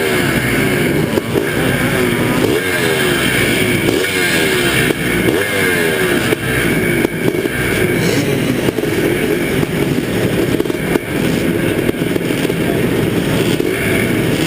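Motocross bike engine revving hard, its pitch climbing and dropping back over and over as it accelerates and shifts or backs off around the track.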